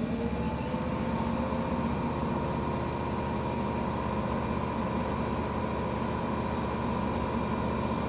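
Old JNR-type electric train running, with a steady rumble and a motor whine that rises in pitch about a second in and then holds level.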